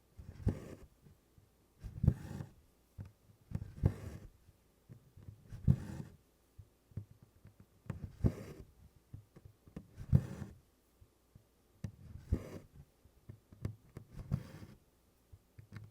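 Embroidery needle punching through 24-count Congress cloth with DMC floss drawn after it, repeating about once every two seconds as tent stitches are worked. Each stitch is a soft low tap with a short rustle of thread.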